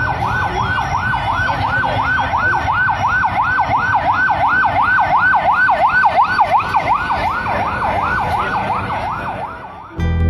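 Emergency vehicle siren in a fast yelp, its pitch rising and falling about three times a second over a low vehicle rumble, fading near the end.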